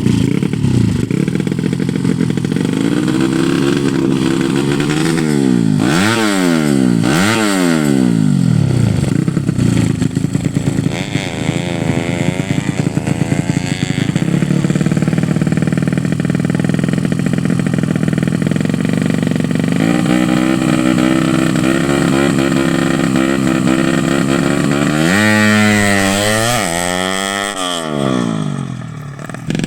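A 115 cc underbone race motorcycle's engine being revved: several quick blips that rise and fall sharply, a wavering stretch, then a steadier fast idle, and near the end one more big rev that climbs and drops back.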